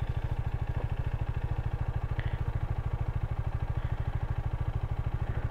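KTM Duke 250's single-cylinder engine running steadily at low revs, a rapid, even pulse with no change in pitch.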